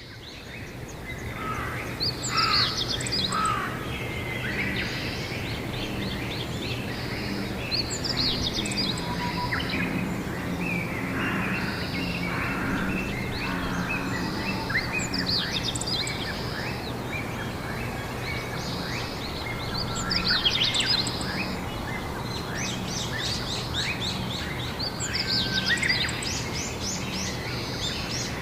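Songbirds singing, a phrase of quick high chirping notes coming roughly every five to six seconds, over steady low background noise with a faint hum.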